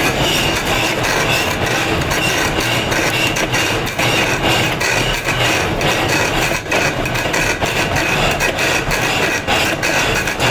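Steady, loud rattling noise of stone being worked, with many quick ticks and a few brief dips.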